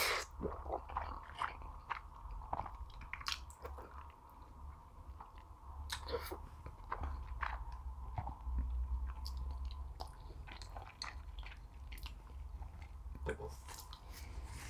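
Close-miked chewing and biting of soft food, with irregular wet mouth clicks and smacks over a steady low hum.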